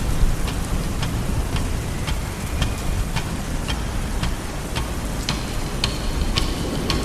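Rain: a steady hiss of falling rain with scattered drop taps, over a low steady rumble.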